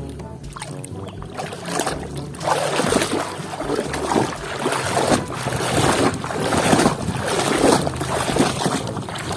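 Water splashing in repeated surges as a large muddy toy dump truck is washed clean, starting about two seconds in.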